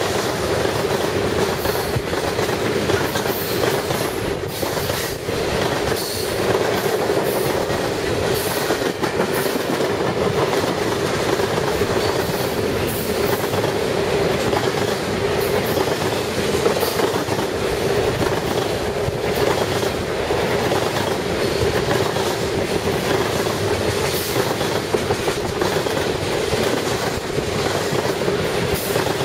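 Railroad cars of a train rolling steadily past, the wheels clacking over the rail joints.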